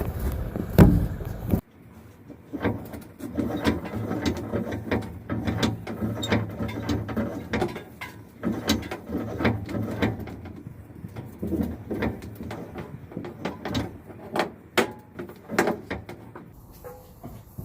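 Irregular mechanical clicking and knocking of carpet-cleaning equipment being handled, as when hoses and their fittings are set up. The first second and a half is outdoor noise with one loud knock, then the sound cuts to a quieter run of clicks.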